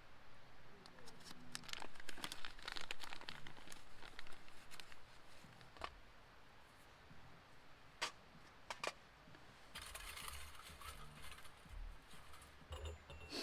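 Crinkling and rustling with scattered sharp clicks and a few dull knocks, as of camp gear being handled.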